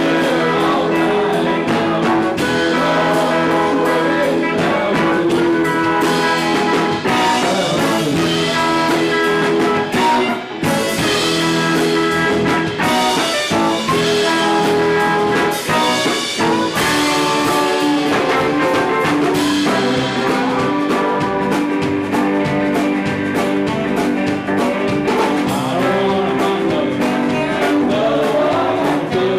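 A live band playing with guitar and drums, sung vocals over the top. The sound is loud and steady, with a brief break about ten seconds in.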